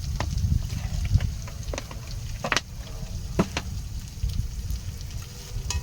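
Ground chili balado paste sizzling as it is stir-fried in a pan, with the spatula knocking and scraping against the pan a few times, most sharply about two and a half and three and a half seconds in. A steady low rumble runs underneath.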